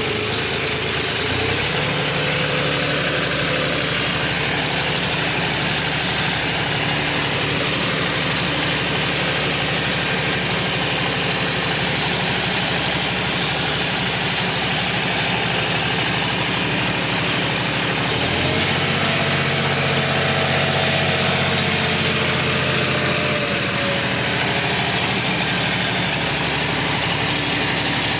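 John Deere tractor's diesel engine running steadily, its note shifting to a new speed about a second and a half in and again about 18 seconds in.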